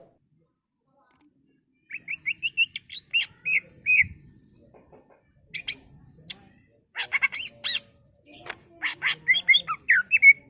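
Cucak ijo (green leafbird) singing in bursts. A quick run of short chirped notes starts about two seconds in. Louder, busier phrases of whistles and chirps, some sweeping high, follow in the second half.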